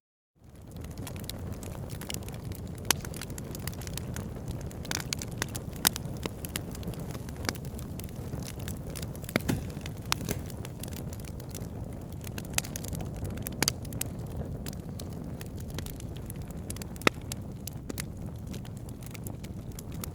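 Campfire burning: wood crackling with sharp pops scattered irregularly over a steady low rumble. The sound drops out briefly at the start and fades back in about half a second in.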